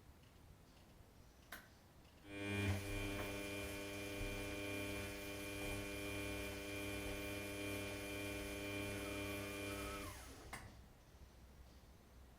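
Washing machine motor humming steadily with an electric buzz. It starts after a click about two seconds in, runs for about eight seconds, slides down in pitch as it stops, and is followed by another click.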